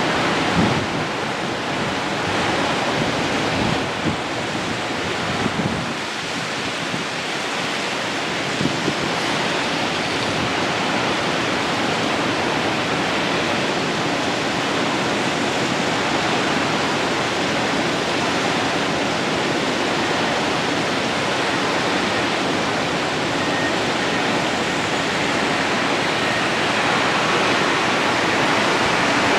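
Steady rushing noise, like wind on the microphone, with a few brief knocks in the first several seconds.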